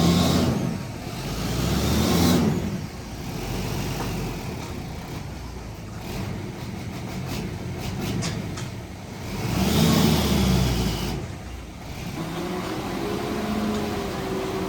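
Heavy earthmoving machine's diesel engine revving up and easing off in three surges, with a few sharp clicks in between and a steady whine setting in near the end.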